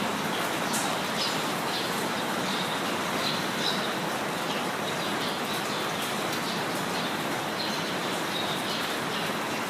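Steady rain falling, with small birds chirping and twittering throughout.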